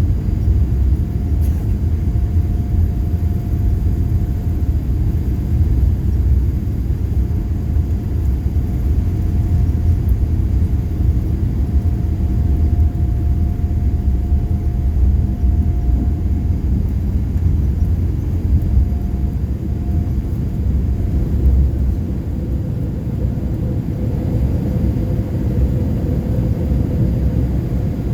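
Cabin noise inside a Boeing 787-8 Dreamliner: a steady low rumble from the engines and airframe, with a faint hum that drops slightly in pitch about two-thirds through.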